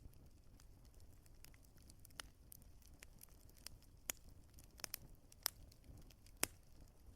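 Wood fire crackling softly, with a few sharp pops scattered through it over a faint low rumble.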